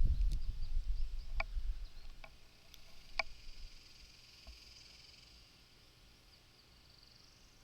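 Creek-side outdoor ambience: a low rumble for the first two seconds, then a few short rising bird chirps, then a faint, steady, high-pitched insect hum.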